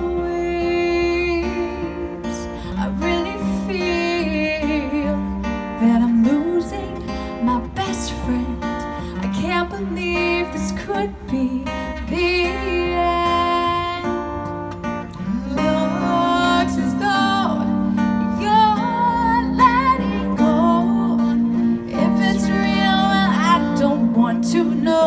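Live music: a song sung with strummed acoustic guitar accompaniment, playing steadily.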